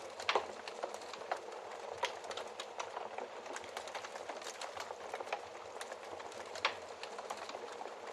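Fire in a fireplace crackling: irregular sharp crackles and pops over a steady hiss, with two louder pops, one just after the start and one near the end.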